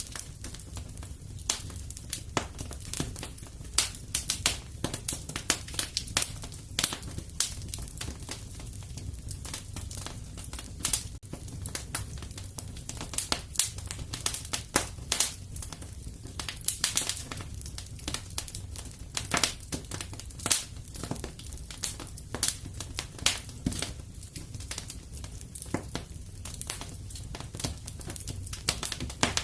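Fire crackling in a fireplace: many irregular sharp snaps and pops over a low steady rumble.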